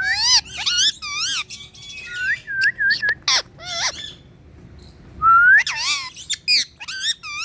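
Pet parrot whistling and calling in high, wavering notes that glide up and down. A quick run of short repeated notes comes about two and a half seconds in, and a long rising whistle a little after five seconds.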